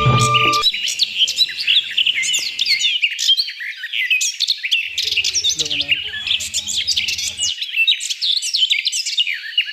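Dense chorus of many small birds chirping and twittering in quick overlapping calls. Background music cuts off just after the start, and a faint low hum comes and goes in the middle.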